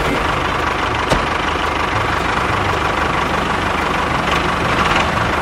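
A tractor engine idling steadily with a low, fast chugging, and a single sharp click about a second in.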